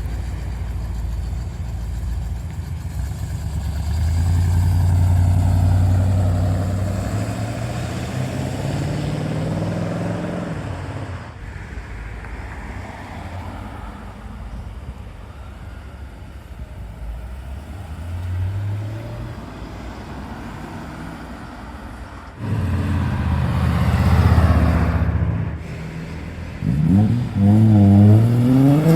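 Cars driving away one after another, engines accelerating as each goes past. A louder car comes in suddenly about two-thirds of the way through, and another revs hard with quick rises and falls in pitch near the end.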